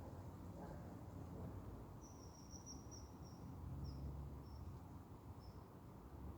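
Faint outdoor ambience with a steady low rumble, and a high-pitched chirping about two seconds in: a quick run of short chirps at one pitch, then a few separate chirps.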